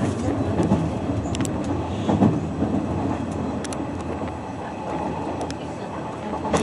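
Hanshin Railway rapid express train running, heard from inside the passenger car: a steady rumble with a few short sharp clicks.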